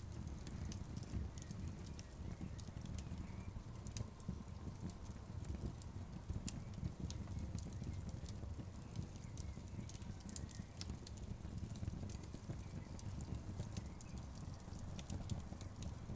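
Wood fire burning in an outdoor fireplace: many sharp, irregular crackles and pops from the logs over a steady low rumble of the flames.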